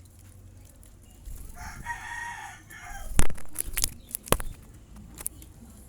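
A rooster crows once, about a second and a half long. It is followed by a handful of sharp, loud taps, the loudest sounds here, bunched together over about two seconds.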